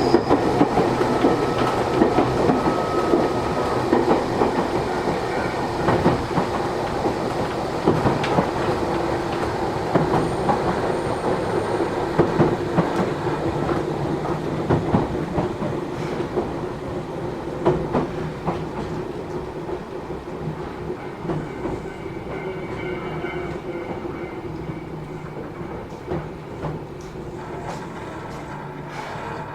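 Cabin running sound of a Matsumoto Electric Railway 3000 series electric train: a steady rumble with wheels clicking over rail joints, growing gradually quieter through the second half as the train slows.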